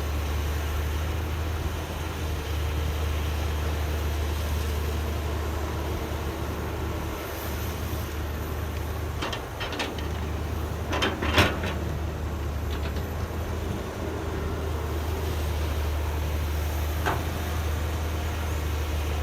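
Excavator's diesel engine running steadily, with a few sharp metallic knocks, loudest about halfway through.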